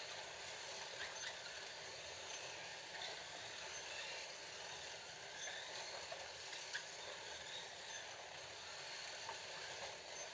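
Scalextric slot cars running laps on a plastic slot track: a steady whir of small electric motors and pickups on the rails, with a few faint clicks.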